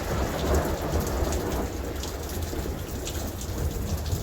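Steady rain pattering down with a low roll of thunder, heaviest in the first second and a half and then easing off.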